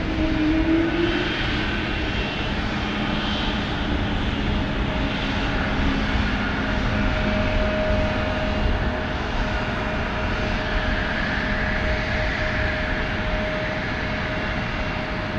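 Airliner engines running steadily, an even rush of noise with a few held tones in it.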